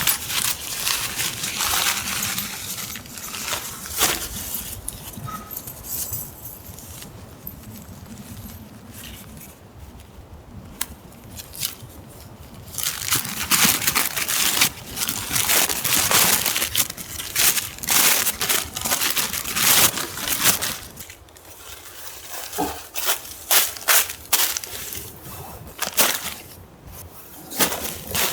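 Irregular crunching and rustling of dry forest litter, with many sharp snaps and clicks, coming in busy spells with quieter gaps around the middle and about three-quarters of the way through.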